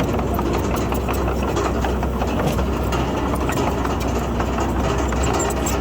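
Heavy diesel engine of earthmoving machinery running steadily, with a deep low hum.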